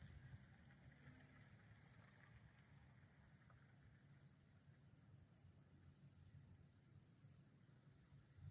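A flock of cedar waxwings giving their thin, very high-pitched calls, faint and repeated over and over, over a low steady rumble.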